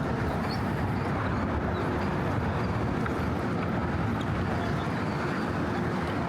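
Steady rumble of motor traffic on the Brooklyn Bridge, with no single sound standing out.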